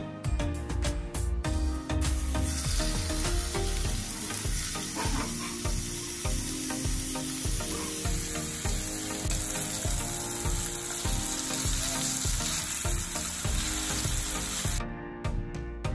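Marinated chicken skewers sizzling as they fry in a non-stick frying pan on a gas hob. The hiss starts about two seconds in and cuts off suddenly near the end, over background music with a steady beat.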